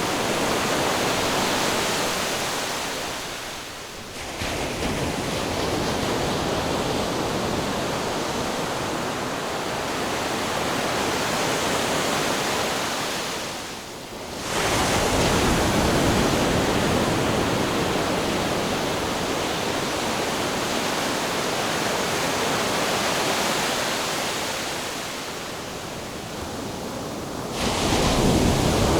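Ocean surf: a steady wash of breaking waves that swells and ebbs, with fresh waves crashing in about 4, 14 and 28 seconds in.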